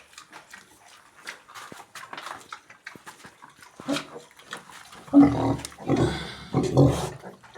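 Sow grunting as she nurses her newborn piglets: soft clicks and small noises at first, then a few loud, low grunts in the second half.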